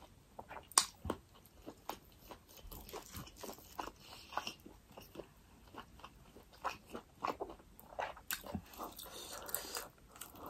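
Close-miked eating: chewing and mouth sounds with scattered short, crisp crunches, and a bite into a forkful of food near the end.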